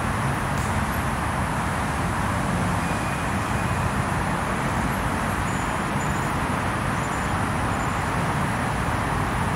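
Steady traffic noise: a constant rumble of road vehicles with no distinct tapping over it.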